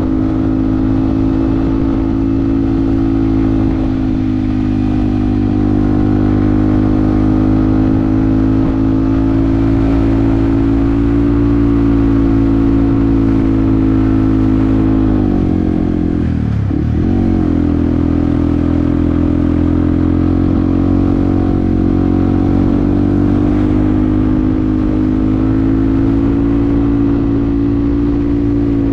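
Yamaha WR155R's 155 cc single-cylinder engine running at a steady engine speed under way. About sixteen seconds in the engine note briefly drops sharply and comes back up.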